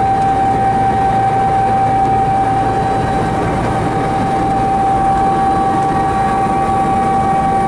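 Helicopter noise heard from inside the aircraft: a constant rushing drone with a strong, unchanging whine held at one pitch.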